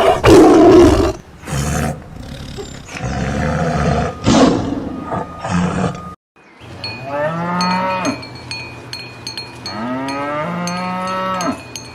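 Loud, rough roaring from a large animal in several bursts, then, after a brief silence about halfway through, cattle mooing: two long moos that rise and then hold, over the light regular clank of a cowbell.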